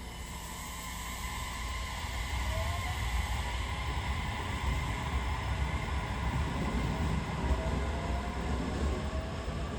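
Train approaching along the platform. Wheels on rail rumble, growing louder over the first few seconds and then holding steady, with faint thin squealing tones.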